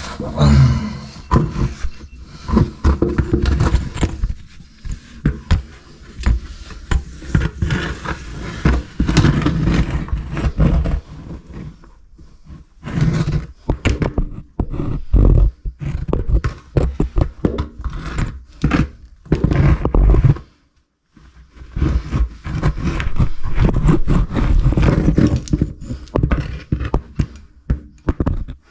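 Scraping, rubbing and knocks of a caver crawling through a tight, muddy cave passage, clothing and gear dragging against rock close to the microphone. The noises come in irregular bursts, with a brief silence about two-thirds of the way through.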